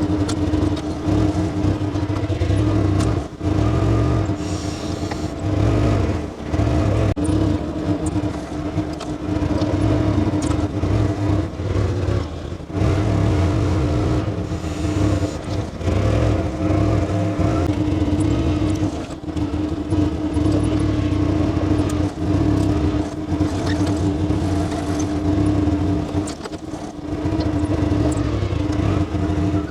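Ute driving with its engine drone and road noise going on steadily, with scattered short clicks and knocks over it.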